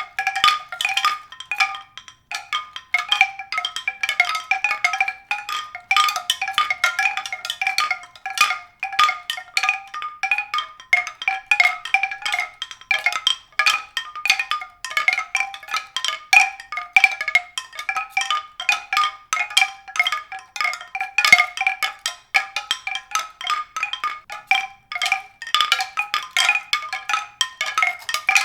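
Mallet-percussion music: a continuous stream of quick, high-pitched struck notes.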